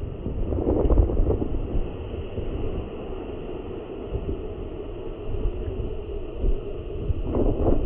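Heavy windstorm gusting, buffeting the microphone with a continuous low rumble. Gusts swell about a second in and again near the end.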